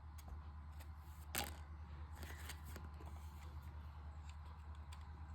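Faint steady low electrical hum with a few scattered light clicks, one a little louder about a second and a half in.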